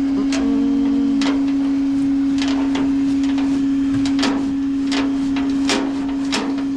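A steady low hum at one even pitch, with scattered sharp clicks and knocks over it.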